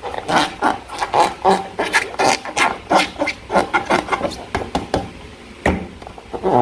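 Slime being squeezed and worked by hand, giving a rapid, irregular run of wet squelching clicks and pops.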